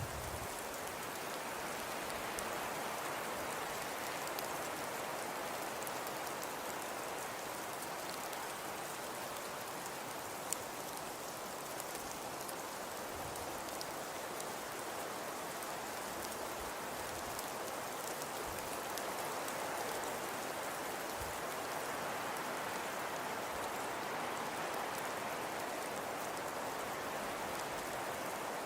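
Fireplace crackling: a steady soft hiss with scattered small pops and one sharper pop about ten seconds in.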